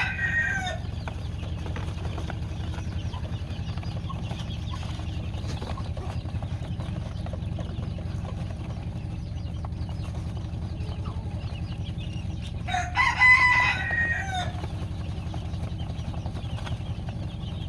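A rooster crows once, a call of nearly two seconds, about thirteen seconds in, over a steady low hum; the tail of an earlier crow ends just as it begins.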